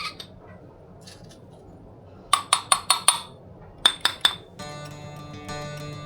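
Kitchenware clinking: two quick runs of sharp, ringing clinks, five and then three, like a utensil striking a glass or ceramic dish. Light plucked-string background music starts a little past the middle.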